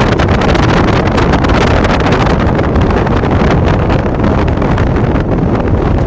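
Strong wind blowing over the microphone, a loud steady rumble with constant crackling buffets.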